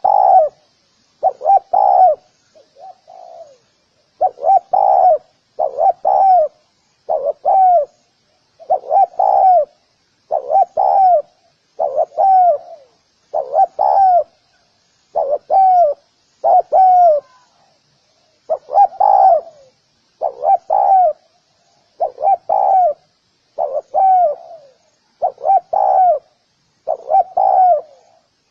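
Spotted dove cooing: short coo phrases repeated steadily, roughly every one and a half seconds.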